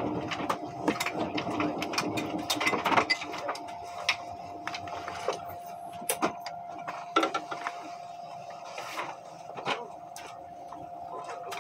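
ICE train running, heard from inside the carriage: a steady hum with irregular clicks and rattles, busier and louder over the first three seconds, then sparser.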